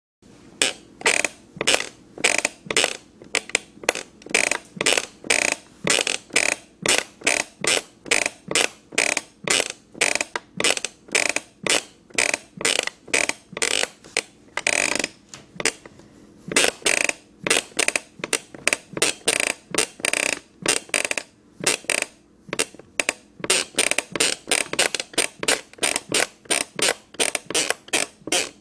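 Creaking wooden stairs: a quick, regular run of short creaks, about three a second, broken about halfway through by one longer drawn-out creak and a short pause before the run resumes.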